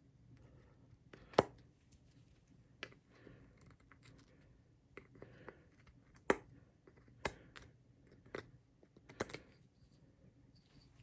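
Hand chisel cutting and scraping into a wooden disc: irregular sharp cuts and short scrapes, a few seconds apart, the loudest about a second and a half and six seconds in. The recess is being carved out to take a nut.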